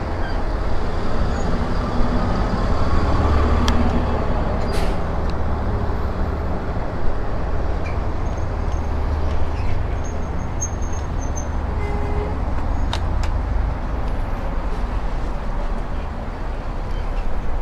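Wind rumbling on a bike-mounted camera's microphone while riding an e-bike along a road, with road traffic going by.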